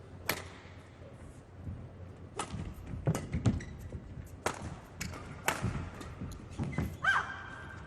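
A badminton rally: sharp smacks of rackets striking the shuttlecock, roughly a second apart, with a quick cluster of hits and thuds about three seconds in. Players' shoes thud and squeak on the court floor near the end.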